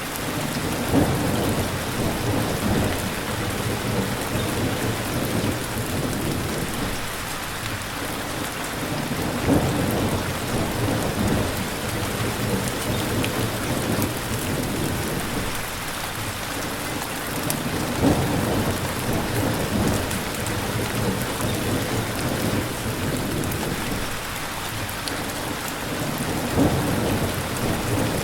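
Steady rain falling, with low rumbles of thunder swelling about every eight or nine seconds.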